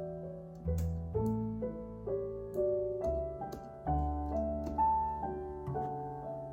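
Calm solo piano background music, slow notes over a low bass that changes about once a second, with faint scattered clicks of typing on a computer keyboard.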